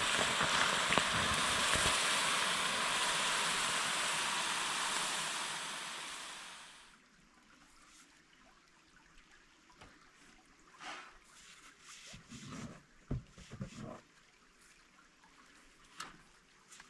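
Steady rush of a flowing stream that fades out about seven seconds in. It is followed by quiet with a few faint scattered knocks and clicks.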